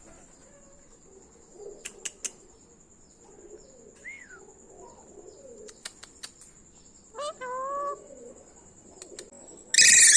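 Pet parrot calling now and then: a short falling whistle, a few clicks, a longer pitched call, and a loud harsh squawk near the end.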